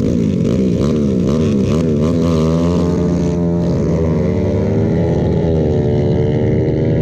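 Motorcycle engine revved in quick throttle blips, rising and falling about two or three times a second, then held at a steadier, slowly wavering pitch from about two and a half seconds in.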